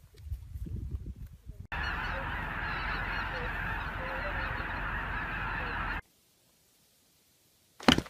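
A large flock of geese honking, a dense din of many overlapping calls that starts suddenly and cuts off abruptly about six seconds in. Before it there is a short stretch of low, uneven noise.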